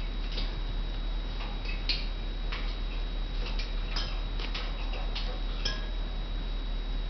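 Irregular light clicks and taps from Indian ringneck parakeets at their cage, over a faint steady high-pitched whine.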